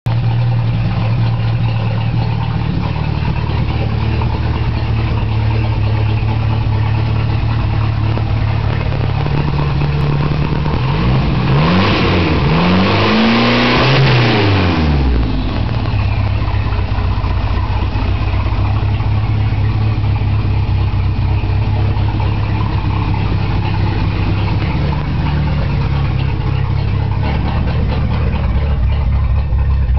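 Merkur XR4Ti's Ford 2.3-litre turbocharged four-cylinder engine running very loud through a short exhaust with a small bullet muffler, idling steadily and revved up and back down twice in quick succession partway through. The owner suspects the cam timing may be slightly off.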